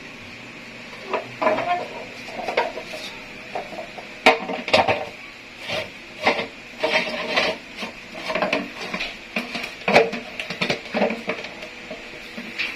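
Parts of a portable water purifier's filter housing being handled and fitted back together: irregular clatter, clicks and knocks, the sharpest about four seconds and ten seconds in.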